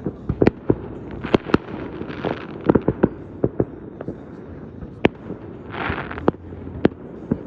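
Fireworks going off: a quick irregular series of sharp bangs, with short crackling bursts about two seconds and six seconds in.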